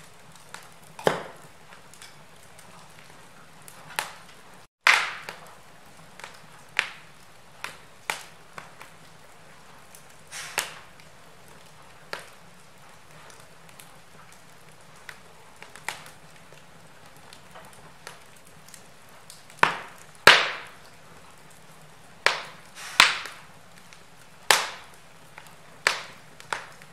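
Wood fire in a fireplace crackling: burning logs giving irregular sharp pops and snaps over a soft steady hiss, the loudest pops coming close together in the last third.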